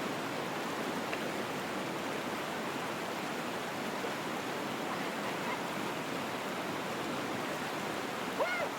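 Glacial torrent rushing steadily, with a short shouted call near the end.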